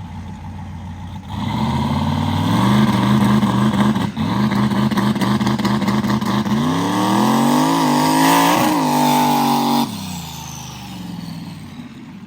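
Turbocharged mud truck engine on a two-step launch limiter: it idles, comes up to a held rev and stays there for a few seconds while on the brakes, then climbs in pitch as it pulls away and cuts off sharply after about ten seconds back to idle. The two-step is holding loosely and needs tightening.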